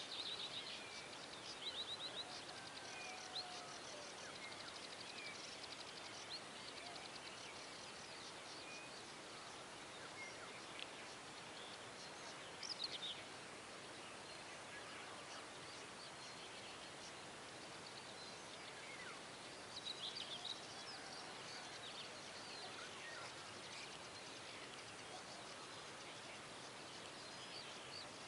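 Faint early-morning birdsong: several small birds chirping and trilling on and off over a steady background hiss, busiest near the start, about halfway through and again a little after that.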